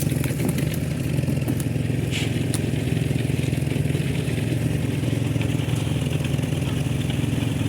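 An engine running steadily at an even speed, with a few light clicks over it.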